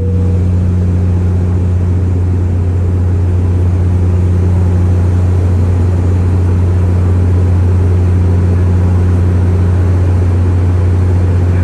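Inside the cabin of a Bombardier Q400 turboprop, its six-bladed propellers and engines give a loud, steady deep drone with a fainter overtone above it, over a constant rush of airflow.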